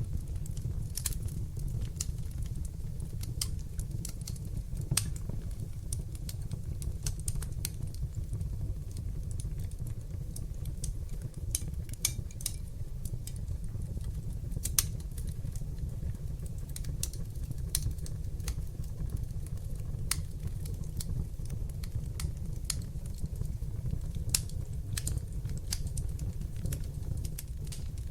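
Wood fire burning in an open fireplace: a steady low rumble of the flames with irregular sharp crackles and pops, a few of them louder.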